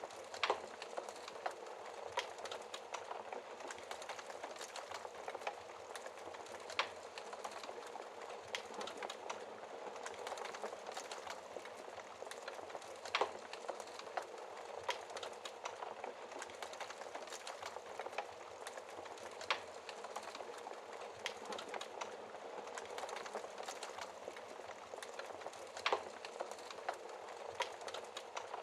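Wood fire burning in a fireplace: a steady hiss of flames with constant small crackles and several louder sharp pops.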